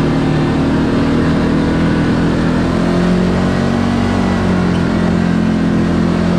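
Side-by-side UTV engine running steadily under way, heard from on board, with its pitch easing down a little about halfway through.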